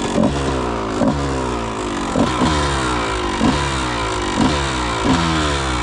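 Honda CR125 two-stroke dirt bike engine running under way, with a burst of throttle roughly once a second and the pitch sagging between bursts.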